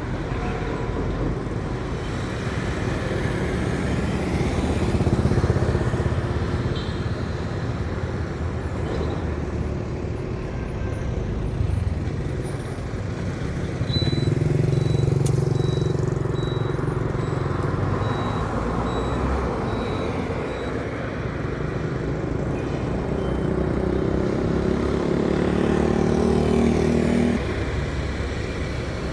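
Road traffic with trucks passing: engines running and swelling as vehicles go by. The loudest passes come about 5 seconds in, from about 14 to 17 seconds in, and from about 24 to 27 seconds in.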